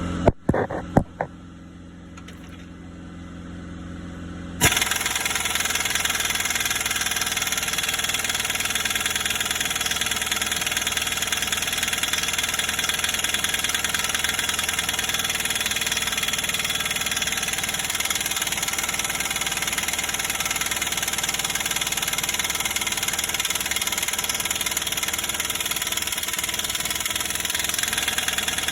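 Diesel truck engine starting: a few sharp clicks, a steady hum growing louder for a few seconds, then the engine catches suddenly about four and a half seconds in and runs steadily.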